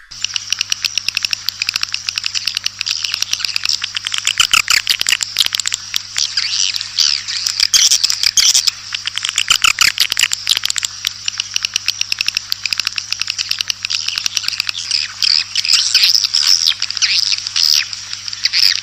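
Swiftlet lure-call recording: dense, continuous twittering chirps and rapid sharp clicks from a flock of edible-nest swiftlets. This is the sound farmers play to draw the birds into a swiftlet house to roost and nest. A faint steady low hum runs underneath.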